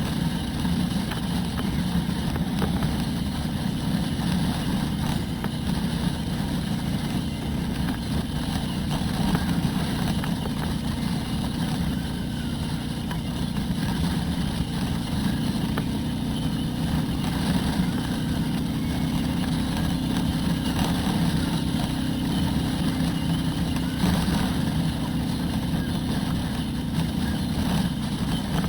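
Harley-Davidson Road Glide's V-twin engine running steadily under way, heard from a helmet-mounted camera, with no revving or shifting.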